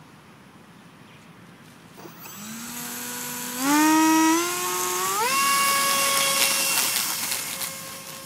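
Electric ducted fan on a brushless motor spooling up: a whine over a rush of air comes in about two seconds in and steps up in pitch two more times as the throttle is advanced, then holds steady at the higher speed.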